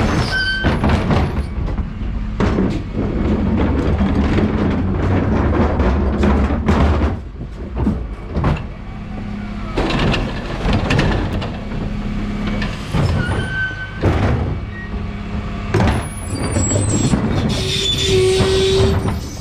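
Dennis Elite 6 refuse truck running, with a steady low engine hum that eases off about seven seconds in and builds again, and repeated knocks and rattles. Short pitched tones sound near the start and again near the end.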